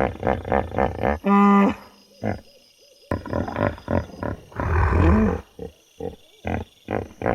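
Cow mooing: one loud, steady low call about a second in and a rougher call around five seconds in, amid a run of short, evenly spaced pulses.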